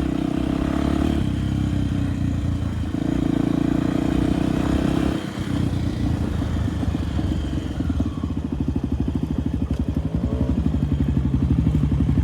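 Enduro motorcycle engine running, pulled up to higher revs twice, then settling about eight seconds in to a low, evenly pulsing chug.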